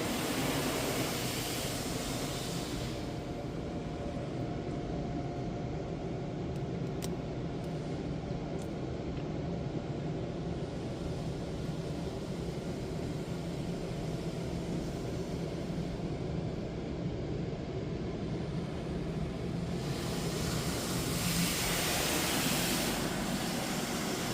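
Washworld Razor touchless car wash running its cycle: a steady machine hum throughout, with hissing water spray at the start and again from about 20 seconds in.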